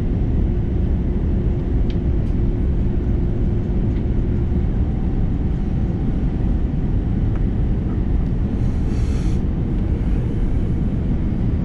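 Cabin noise inside an Airbus A330-343 airliner: a loud, steady rumble of engines and airflow. A brief hiss comes about nine seconds in.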